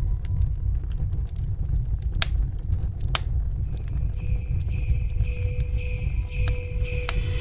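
Wood fire crackling, with scattered sharp pops over a low rumble. About halfway through, sleigh bells begin jingling steadily, the opening of a Christmas song.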